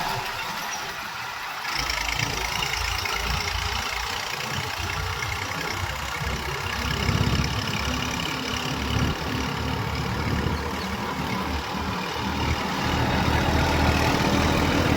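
Heavy diesel engine of farm or earthmoving machinery running steadily, its low rumble growing fuller from about two seconds in.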